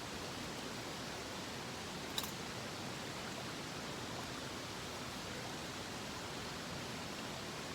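Mountain stream running with a steady, even rush of water. A single sharp click sounds about two seconds in.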